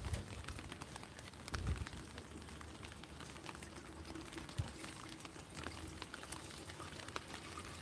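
Rain pattering on a clear umbrella overhead: a steady hiss dotted with many small drop ticks. Two low footsteps on wet pavement come in the first two seconds.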